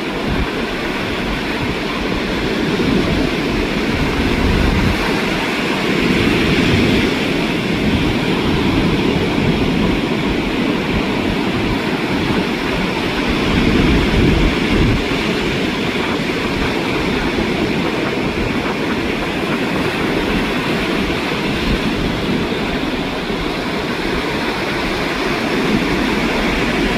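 Ocean surf rushing continuously on the shore, with wind buffeting the microphone in a low rumble.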